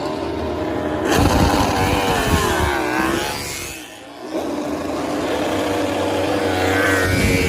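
MotoGP racing motorcycles' four-cylinder engines at high revs, their pitch sweeping up and down as the bikes pass and change gear. About four seconds in the sound briefly dips, then an engine climbs steadily in pitch until a sudden drop near the end.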